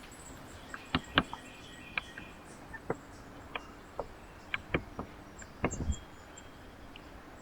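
A dozen or so irregular sharp taps and clicks, small hard knocks on a bird feeder as birds peck and pick at seed. They come in little clusters, with a few closely spaced knocks about five and a half seconds in.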